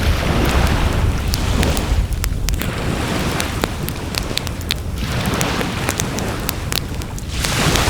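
Wood fire crackling with scattered sharp pops, over sea waves washing onto the shore in swells every few seconds and a steady low rumble.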